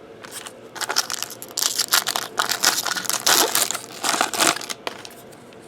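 A foil trading-card pack wrapper being torn open and crinkled, in a run of rustling bursts lasting about four seconds.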